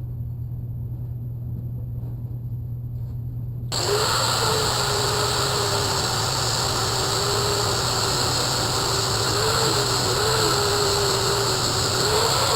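Angle grinder with a flap disc running against a mild steel bar, polishing it; the motor's pitch wavers slightly as the load changes. It starts suddenly about four seconds in, after a few seconds of steady low hum.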